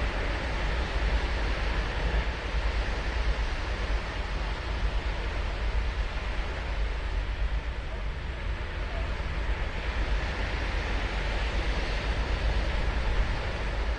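Ocean surf breaking and washing up the shore, a steady rushing wash that swells gently, with a deep low rumble underneath.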